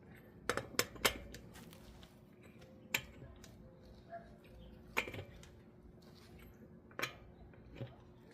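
Sharp metallic clicks and clinks from hand tools on the brake and wheel hardware: three quick ones about half a second to a second in, then single clicks roughly every two seconds.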